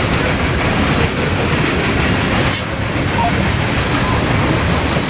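Loaded coal hopper cars of a CSX freight train rolling past: a steady rumble of steel wheels on rail, with clickety-clack as the wheels cross rail joints and a sharp click about two and a half seconds in.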